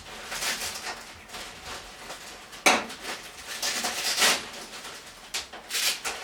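Small hard objects clattering, knocking and scraping on a workbench while a brake-bleeding tube and bottle are handled, with a sharp knock about two and a half seconds in.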